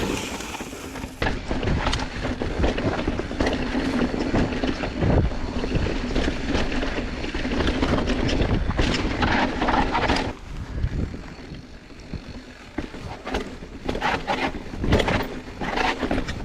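Mountain bike riding fast down a dirt trail: tyres rolling and crunching over dirt and rocks, with many sharp knocks and rattles from the bike over bumps, and wind buffeting the microphone. It eases off for a couple of seconds about two-thirds of the way through.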